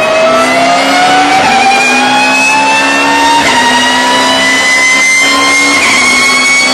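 BMW E36 race car accelerating hard, its engine note dropping back at three upshifts about two seconds apart. Over it runs a high whine from its straight-cut gears that rises steadily with speed.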